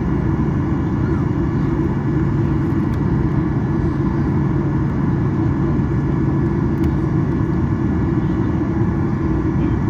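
Steady low rumble and hum inside the cabin of a Boeing 737-800 on the ground, with a few faint steady tones above it and no clear events.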